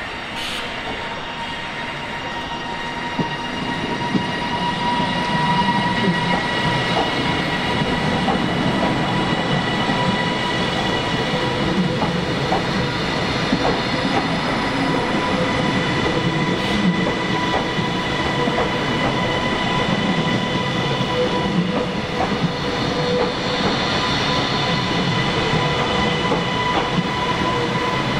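Train running through the station. The sound grows louder over the first few seconds, then holds steady: a rumble with scattered wheel clicks and a steady high-pitched tone over it.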